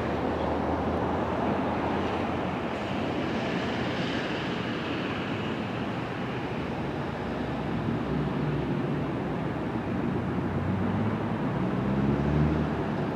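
Train rumble dying away after a pass, with a low droning hum building in the second half.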